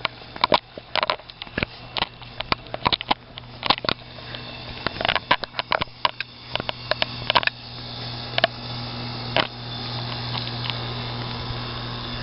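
A running air-conditioner condensing unit: a steady compressor hum with fan noise, growing louder over the first nine seconds or so. Scattered sharp clicks and rustles close by, thinning out after about eight seconds.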